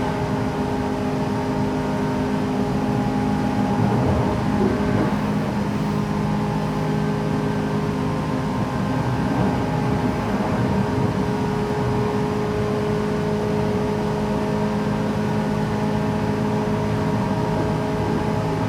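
JR West 117 series electric train running, heard inside the passenger car: a steady hum of several motor and gear tones over the rumble of wheels on rail, holding at an even speed.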